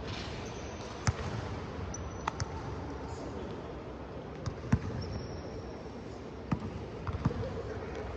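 A ball game in play, with a handful of sharp, irregular ball impacts, about seven in all, and faint high squeaks like shoes on a court floor.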